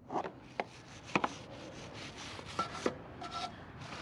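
A brush scrubbing a motorcycle drive chain: irregular rough strokes with several sharp clicks, and two brief squeaks in the second half.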